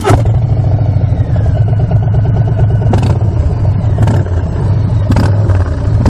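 Harley-Davidson Street Bob's Milwaukee-Eight V-twin idling steadily through Cobra aftermarket exhaust pipes, a loud low rumble.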